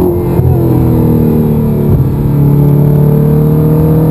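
Audi R8 engine heard from inside the cabin. Its note falls for about two seconds, breaks briefly, then climbs slowly as the car drives on under light throttle.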